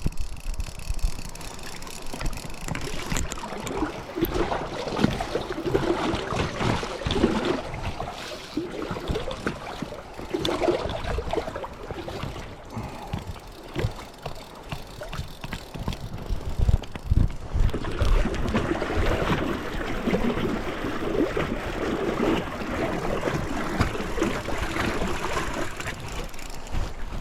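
River water gurgling and splashing against a small inflatable fishing boat, with gusts of wind rumbling on the microphone.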